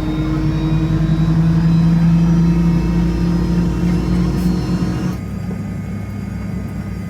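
Fokker 70's Rolls-Royce Tay turbofan engines running, a low steady whine rising slowly in pitch. About five seconds in the sound changes abruptly to a lower, rougher drone.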